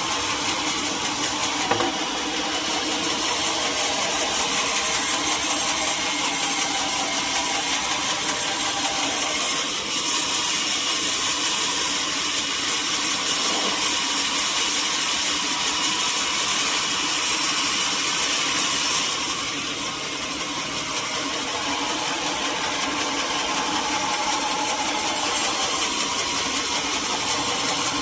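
A sawmill saw cutting teak timber, running steadily with a dense high hiss under a held machine tone. The sound eases briefly about two seconds in and again around twenty seconds in.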